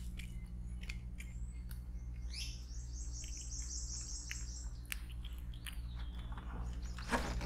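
A wild bird singing: a rising note, then a quick run of high repeated notes lasting about a second and a half, and a shorter chirp a couple of seconds later, over a steady low hum and a few faint clicks.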